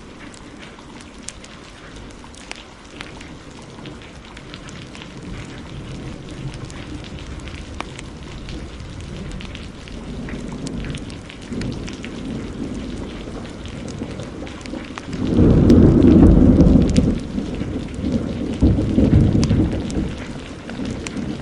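Steady heavy rain, with thunder rumbling in from about ten seconds in, peaking in a loud low roll about fifteen seconds in and rolling again shortly after.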